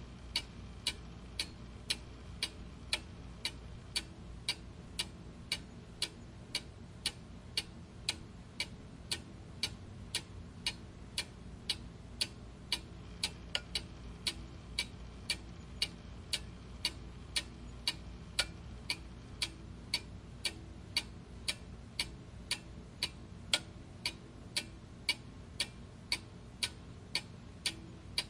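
Mechanical clock ticking steadily, about two even tick-tock beats a second.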